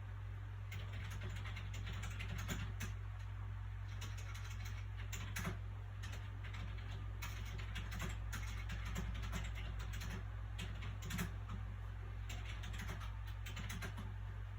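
Soft paper sounds from handling a book: many irregular light clicks and crackles. A steady low background hum runs beneath them.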